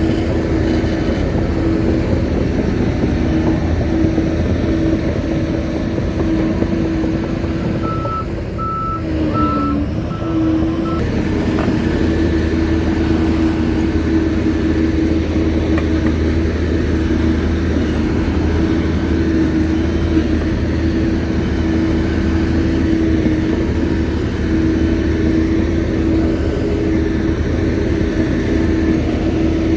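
Shantui bulldozer's diesel engine running steadily with a constant whine. About a third of the way in the engine note dips briefly and the reversing alarm beeps about four times.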